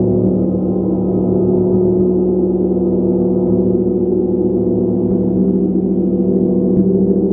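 A gong being played continuously: a sustained wash of many overlapping low tones that pulse and beat against each other. A fresh stroke lands softly near the end.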